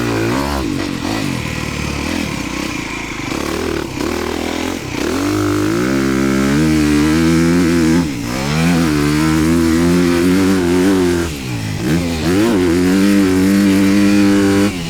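Honda motocross bike engine being ridden hard, its pitch climbing under throttle and falling away again as the rider backs off, with sharp drops about five, eight and eleven seconds in and again near the end.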